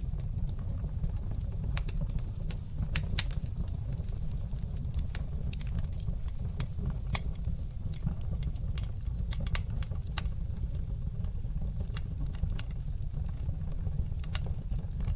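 Wood fire burning in a fireplace, crackling with scattered sharp pops over a low, steady rumble; a few pops stand out louder.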